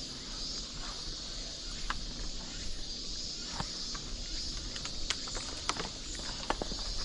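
Steady high-pitched chorus of summer cicadas in the forest, with a few sharp clicks of footsteps on the trail.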